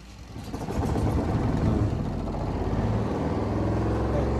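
Spin dryer of a new Kelvinator twin-tub washing machine switched on: its motor starts about half a second in and spins up to a steady hum.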